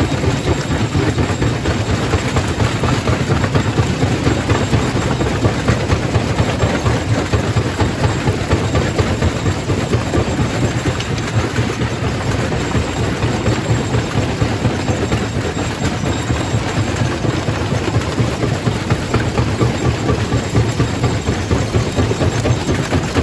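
Quarry primary rock crusher running: a steady, heavy rumble with a dense, continuous rattle.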